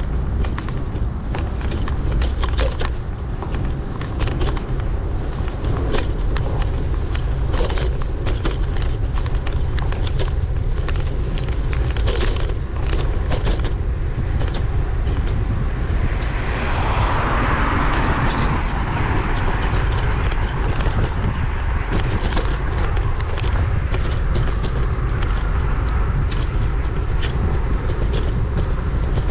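Wind rumbling on the camera microphone of a moving bicycle, with frequent rattling clicks. A motor vehicle passes a little over halfway through, its noise swelling and then fading over several seconds.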